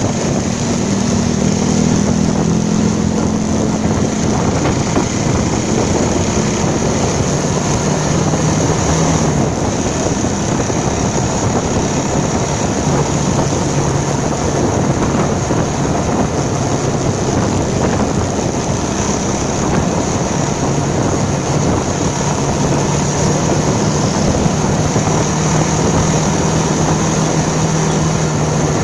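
Motorcycle engine running while riding, its hum falling in pitch over the first several seconds and then holding steadier, under a constant rush of wind and road noise on the microphone.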